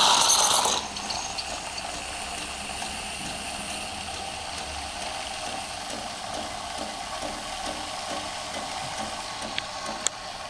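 Wanshida WSD18-010B coffee machine's steam wand opening with a loud hiss for about a second, then hissing steadily with a whistling tone as it steams milk for a cappuccino; it cuts off near the end after a click.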